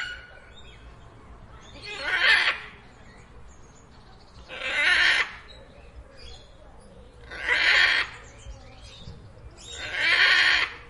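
An animal's breathy hisses, repeated four times at an even pace about two and a half seconds apart.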